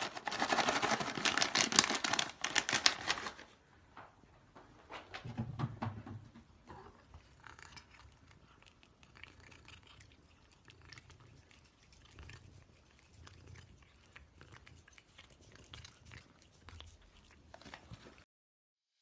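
A pet chewing with rapid crunching and crackling, loudest for the first three and a half seconds, then quieter and scattered, with a few soft low thuds.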